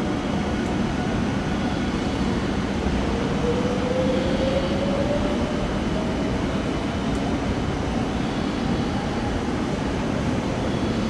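Electric train running at a station platform with a steady rumble. A motor whine rises in pitch partway through.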